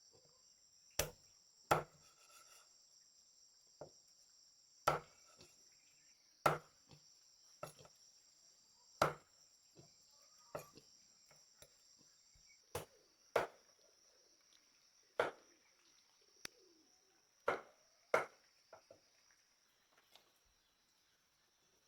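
Repeated chopping: about fifteen sharp strikes at an uneven pace, roughly one every second or two. A steady chirring of insects runs underneath.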